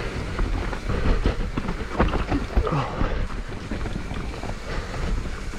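Mountain bike descending a rough downhill trail, heard from a GoPro on the rider: wind buffeting the microphone and a low rumble of tyres over dirt and rock, with frequent clatters and knocks from the bike.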